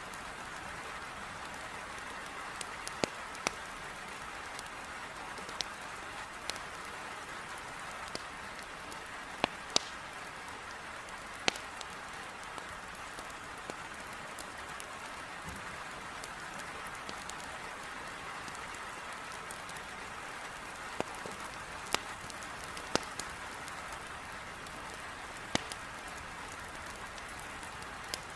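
Steady, heavy rain hissing against a window glass, with the sharp, irregular pops and crackles of burning firewood in a fireplace scattered through it.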